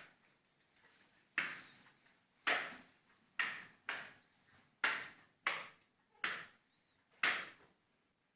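A series of eight sharp knocks, coming about once a second at uneven spacing, each with a short ringing fade.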